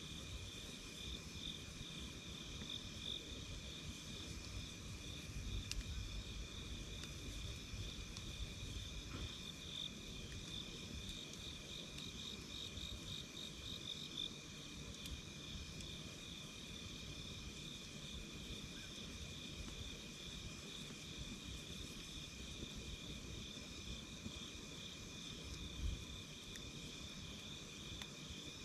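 A night chorus of insects chirping: a steady high trill with a fast pulsing beat, at two pitches, over a low rumble. A few faint crackles from a campfire come through.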